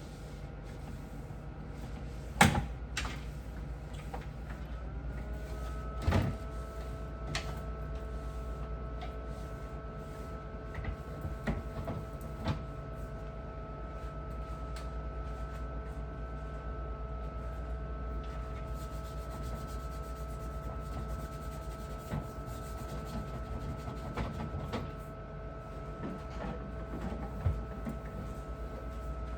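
Scattered knocks and clicks of refrigerator parts and items being handled and set down during cleaning, over a steady low hum; a steady whine of several tones sets in about five seconds in.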